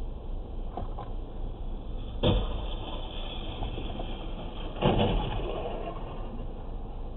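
Dashcam recording of steady car road and engine noise, broken by a sharp bang about two seconds in and a louder crash about five seconds in that dies away over the next couple of seconds, typical of a vehicle collision.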